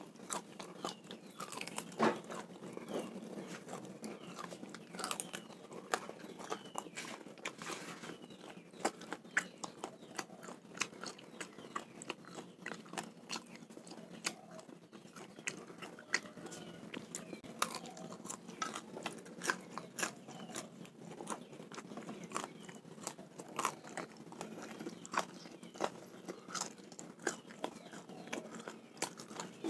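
A man biting and chewing raw snakehead fish close to the microphone: many irregular sharp mouth-and-teeth clicks. The flesh is tough to chew.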